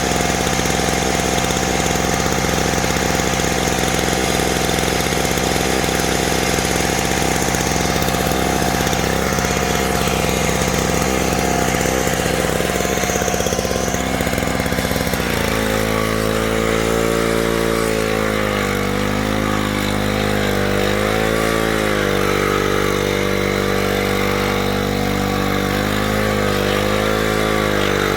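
An engine running steadily. About halfway through, its pitch drops, then rises and falls in slow waves as the engine speed changes.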